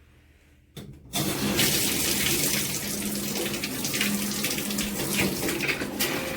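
After a short knock, shower water comes on about a second in and then sprays steadily from the all-metal shower head.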